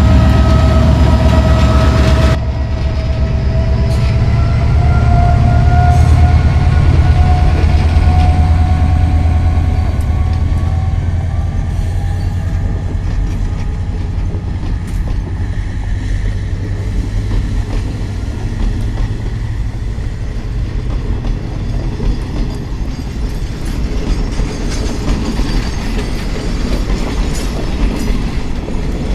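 A metre-gauge diesel passenger train pulling out. A loud blast of its horn cuts off about two seconds in. The locomotive's heavy low rumble carries on under a slowly rising whine, with the wheels clattering over the rails and gradually fading.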